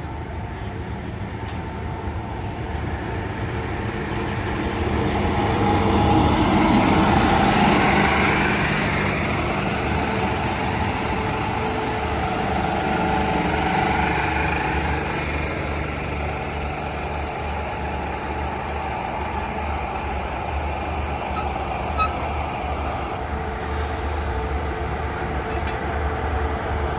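SRT diesel passenger train pulling into the station. It is loudest about six to eight seconds in as the locomotive comes past, then its engine idles with a steady low hum as the train stands at the platform.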